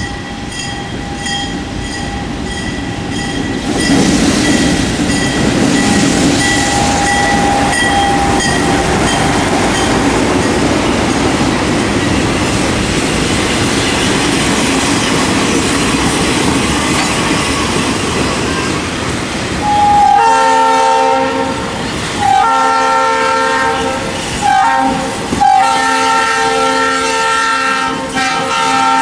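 GE C30-7 diesel locomotive and its work train passing close by, engine rumble and steel wheels clattering over the rails, with an even, repeated ringing over the first ten seconds. About twenty seconds in, a multi-chime train horn starts sounding in several long blasts with short breaks, running on to the end.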